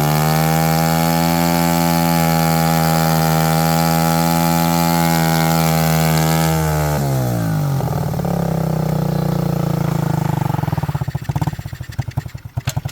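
Pit bike engine on a test run, held at high revs, then dropping to a lower, uneven idle about seven seconds in and slowing into separate putts as it dies out near the end.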